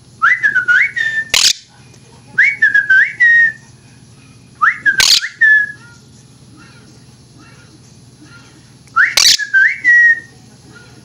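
Quaker parrot (monk parakeet) whistling the same short tune of rising and falling notes four times, with a longer pause before the last. Three short sharp noises cut into the phrases.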